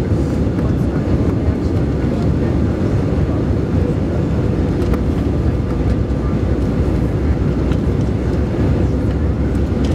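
Steady, loud cabin rumble of an Airbus A320 in flight: its jet engines and the airflow over the fuselage, heard from inside the passenger cabin.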